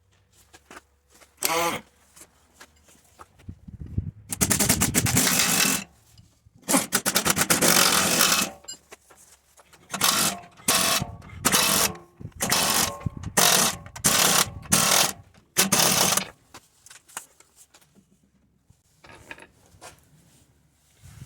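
A power tool with a rapid hammering action, such as an impact wrench, running in about ten short bursts of one to two seconds each, with quiet gaps between them.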